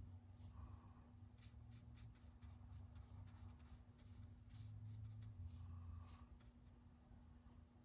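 Faint, scattered strokes of a paintbrush on watercolour paper, over a steady low hum.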